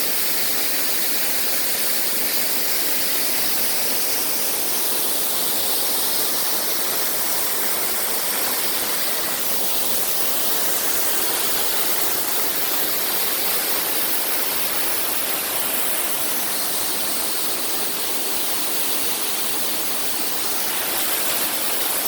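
Waterfall rushing: a steady, unbroken roar of falling water with no change in level.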